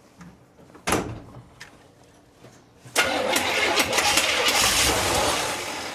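1970 Chevy C10's engine being cranked over by the starter: a short burst about a second in, then a longer, loud crank from about three seconds that fades near the end. The truck is hard to start and has just been fitted with a new distributor.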